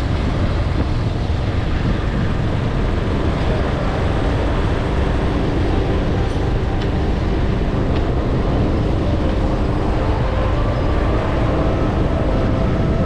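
Motorcycle ride heard from the rider's microphone: heavy wind rumble over a steady engine hum, with faint engine tones.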